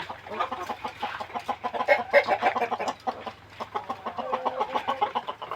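A flock of kampung (Indonesian native) chickens clucking, with many short calls overlapping and at their loudest about two seconds in.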